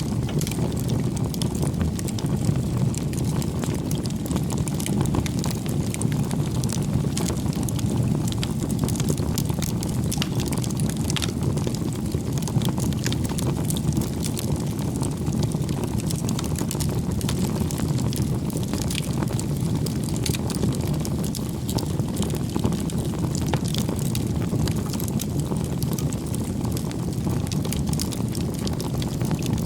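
Bonfire of firewood burning: a steady low rush of flames with frequent small crackles and pops scattered throughout.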